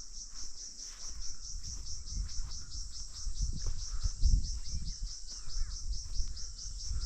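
Insect chirping in an even, high-pitched pulse, about five to six chirps a second, over a low uneven rumble. A few faint bird chirps come in about five seconds in.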